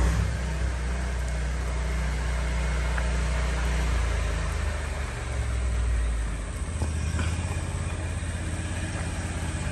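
Engine-driven pressure washer running while water is sprayed: a steady engine hum under a constant hiss of spray. The engine note shifts about six seconds in.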